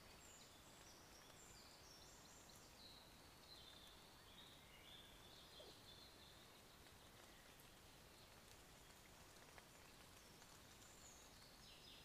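Near silence with a steady hiss, and a songbird singing faintly in quick high note runs for the first few seconds and again near the end.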